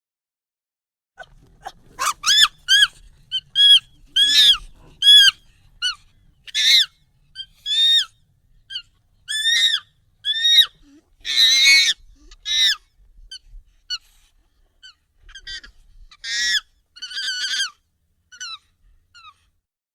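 Monkey calls, sped up and raised in pitch: a run of short, high, arching shrieks, one or two a second, starting about a second in. A harsher, noisier call comes a little past the middle.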